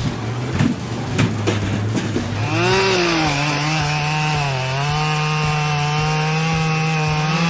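A low engine hum with scattered knocks. About two and a half seconds in, a chainsaw revs up and runs at high speed, its pitch sagging slightly now and then as it bites into wood.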